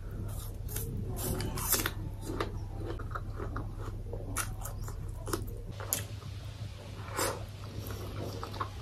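Close-miked eating sounds: biting into and chewing apple slices and boiled carrot, with irregular sharp crunches and wet mouth sounds. A low steady hum runs underneath.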